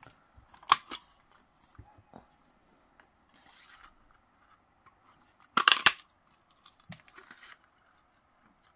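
Scissors cutting paper: a single sharp snip under a second in, then a louder, longer cut about five and a half seconds in, with faint paper rustling between.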